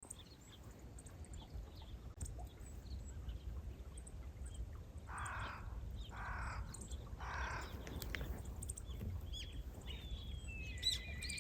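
Crow cawing three times, about a second apart, over a steady low rumble, followed by small birds chirping near the end.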